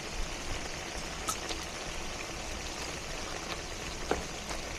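Food sizzling in a frying pan on the stove: a steady hiss with a few sharp pops.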